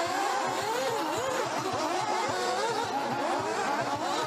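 Several nitro RC buggies' small two-stroke glow engines racing together, each pitch rising and falling as the cars rev and back off around the track.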